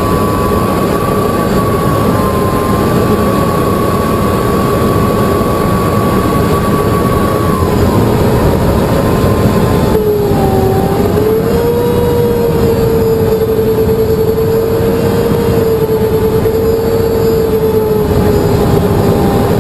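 The Colomban CriCri Jet's small jet engines running steadily: a loud rush of noise with two whining tones that waver in pitch. The tones drop and shift about halfway through.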